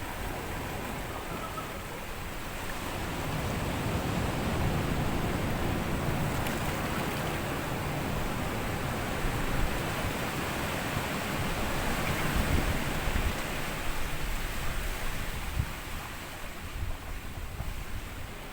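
Waves breaking on a sandy beach and washing up the shore: a swell of surf that builds over a few seconds, holds, then eases back near the end.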